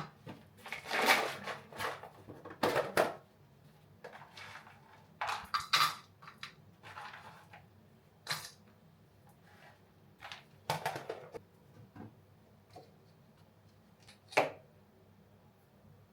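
Kitchen clatter: dishes, bowls and cutlery being handled, a series of separate clinks and knocks at uneven intervals.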